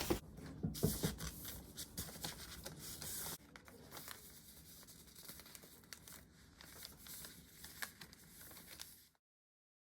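Close-up handling noise: rustling and crinkling with scattered small clicks and taps, busier in the first few seconds and fainter after. The sound cuts off abruptly near the end.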